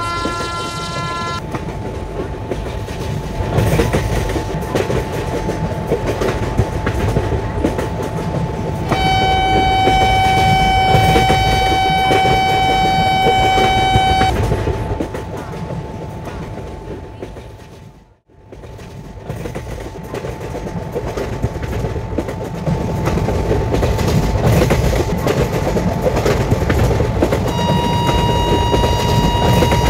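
Indian Railways WAP-5 electric locomotive and its train running past with steady rumble and wheel clatter, the locomotive horn sounding three times: a short blast at the very start, a long blast of about five seconds about nine seconds in, and another blast near the end. The running noise dips out abruptly for a moment around the middle.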